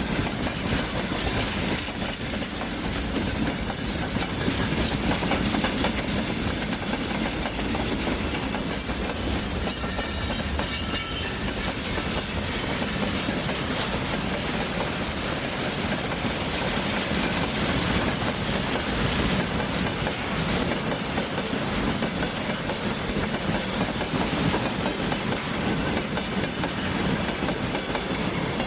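A train running along the track: steady, continuous noise of wheels on rails.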